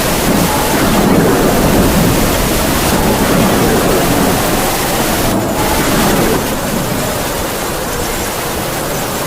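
Heavy rain falling steadily, with wind howling through it in a faint wavering whistle that drifts up and down in pitch.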